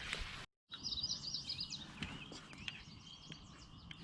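Songbirds chirping and warbling, many quick rising and falling notes, after the sound cuts out completely for a moment about half a second in.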